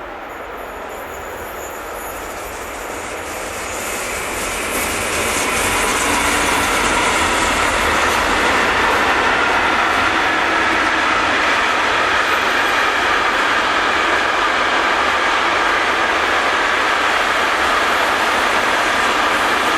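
A train passing on railway track: its wheel and rail noise grows louder over the first five seconds, then holds as a steady rolling rumble with clatter from the wagons.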